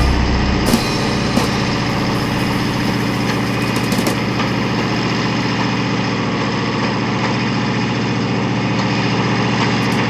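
Diesel engine of an old self-propelled earthmoving scraper idling steadily.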